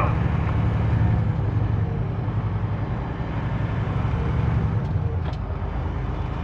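Semi-truck's diesel engine running steadily at road speed, heard from inside the cab, with a faint tick or two about five seconds in.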